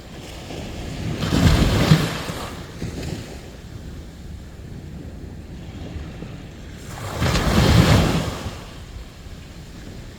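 Sea waves on a beach. Two waves surge and break, about six seconds apart, one about a second in and one near the end, over a steady low wash of surf.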